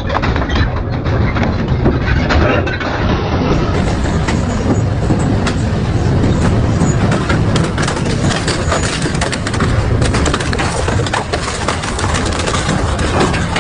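A double-shaft metal shredder running under load as it tears scrap metal, with a constant low rumble and dense, irregular cracks and snaps of metal breaking.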